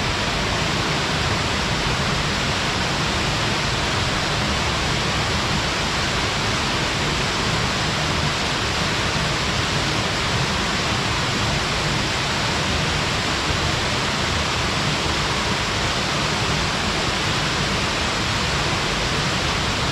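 Small mountain waterfall pouring steadily onto rock and pool: a constant, even rush of falling water with no changes.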